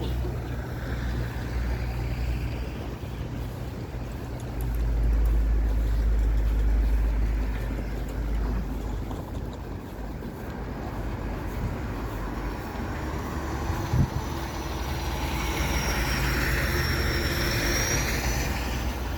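City street traffic passing, with a steady low rumble. A vehicle swells up about two thirds of the way in and fades near the end, carrying a faint high whine.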